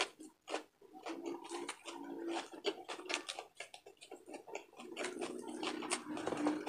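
Close-miked chewing and crunching of crispy deep-fried pork belly (bagnet) with lettuce, many small crackles and mouth clicks, along with crinkling of lettuce leaves being handled. A faint steady hum runs underneath and grows a little louder near the end.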